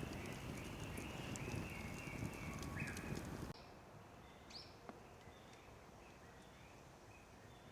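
Forest ambience: a steady run of short, high chirping calls over low rustling and small knocks, which drops abruptly to a quieter, fainter version about halfway through.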